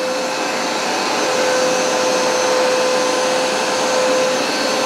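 Hoover SmartWash Pet carpet cleaner running steadily, its suction motor and scrubbing brushes giving a constant whine with a single steady hum-tone over a rushing noise.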